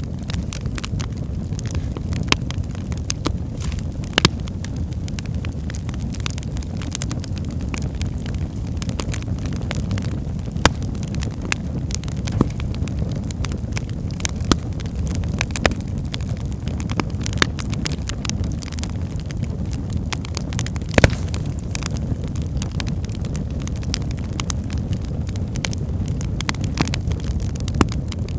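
Wood fire burning in a fireplace: a steady low rumble of flames with frequent sharp crackles and pops from the burning logs, one louder pop about three-quarters of the way through.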